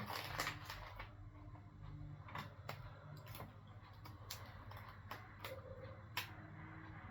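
Faint, scattered light clicks and taps, as of small objects being handled on a workbench, about eight over the few seconds, over a low steady hum.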